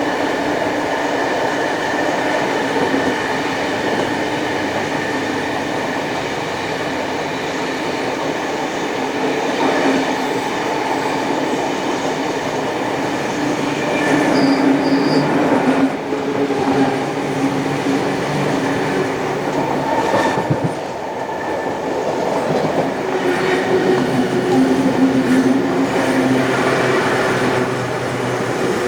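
Passenger train hauled by steam locomotive 3801 running along the track: a steady rumble of wheels on rails with drawn-out wheel squeal that comes and goes.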